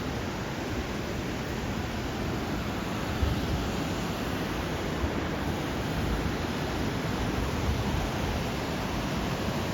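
Steady rushing of river water at Low Force waterfall, a constant full roar without breaks.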